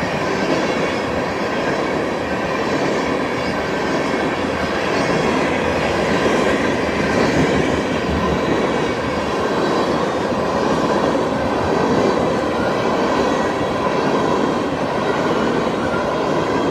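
A Canadian National oil train's freight cars rolling past, a steady rush of wheels on rail with faint, thin squealing tones held throughout.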